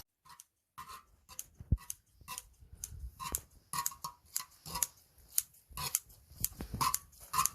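Utensils clicking and scraping on an upturned cast-iron cauldron lid while fried rice is chopped and turned: a string of irregular sharp clicks, about two a second.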